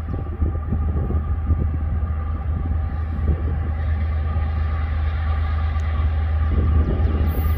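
Freight train rolling by on the main line, a steady low rumble of locomotives and cars on the rails.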